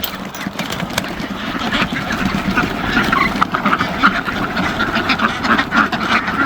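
A flock of backyard poultry calling together, ducks quacking among them. Many short calls overlap in a steady din that grows louder.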